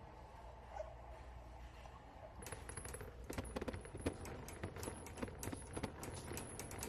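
Low steady hum, then from about two and a half seconds in a rapid, irregular run of small clicks and clinks.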